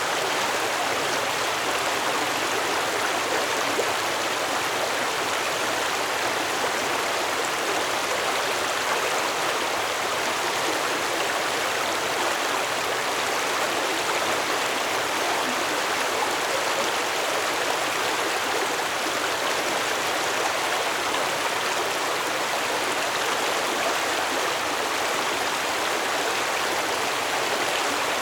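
Stream water flowing and splashing steadily, an even rushing noise without breaks.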